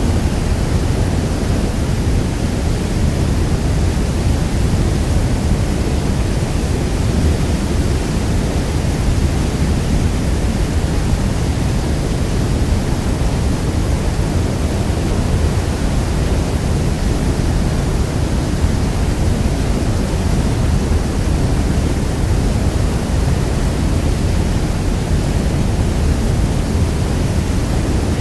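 Niagara Falls' water thundering down in a steady, deep, unbroken roar, with the sound weighted to the low end.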